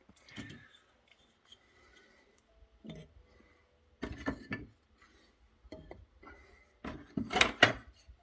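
Firewood and kindling being handled while a fireplace is laid and lit: scattered knocks and clicks of wood against wood and metal, with a louder scraping rustle about seven seconds in.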